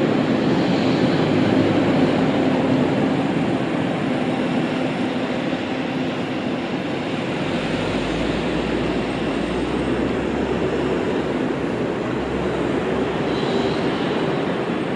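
Steady rumble and hiss of a moving vehicle, like the running noise of a train or tram, with a deeper low rumble setting in about halfway through.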